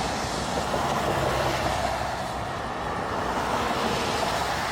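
Steady rumble and hiss of a heavy vehicle running.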